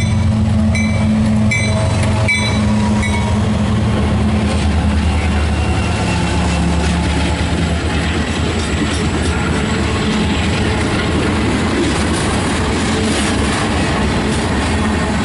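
Train passing: a diesel locomotive's steady engine drone through the first half, giving way to the steady rolling noise of rail cars on the track with scattered wheel clicks.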